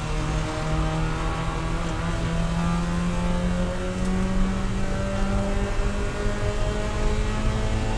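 Spec Miata race car's four-cylinder engine at full throttle, heard from inside the cabin, pulling steadily up through the revs in one gear as the car accelerates, its pitch rising the whole time.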